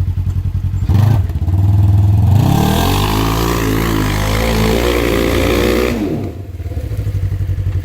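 Polaris RZR side-by-side engine idling, blipped once about a second in, then revved hard, rising in pitch for about three and a half seconds under a loud rushing noise as the machine charges a steep bank, before dropping back to idle.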